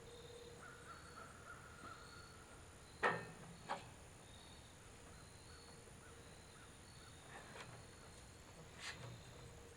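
Faint outdoor background with birds calling, and two sharp knocks about three seconds in, followed by a few fainter ones later.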